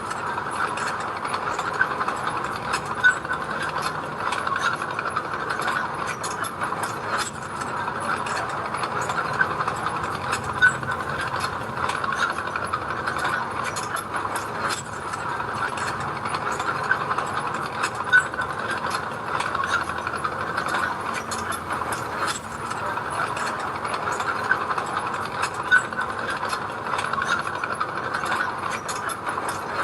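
Construction machine's engine running steadily under a dense metallic clatter, with a few sharper clanks spread through.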